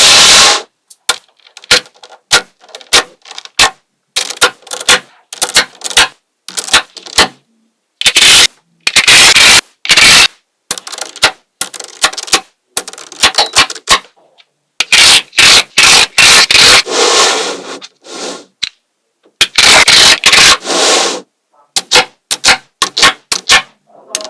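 Small magnetic balls clicking sharply as they snap together one at a time, broken by longer rattling stretches as groups of balls roll and scrape against one another.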